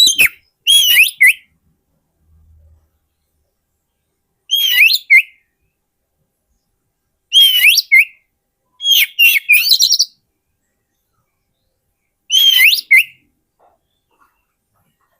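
Oriental magpie-robin (kacer) singing: five short bursts of rich, quickly varying whistled phrases, each under about a second and a half, with silent gaps between them.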